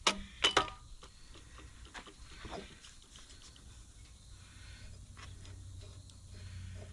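Metal parts of a tractor's hydraulic roller lift clinking and tapping as it is taken apart by hand. Two sharp clinks at the start, then light scattered taps.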